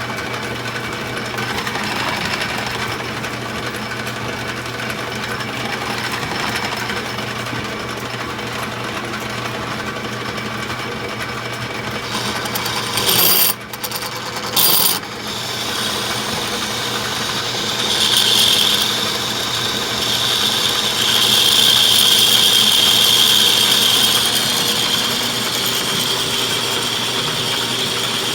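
Metal lathe running as a steel bar is turned, a steady machine hum. About halfway there are two short loud bursts with a brief drop between them, and from about two-thirds in a high steady whine rides over the hum.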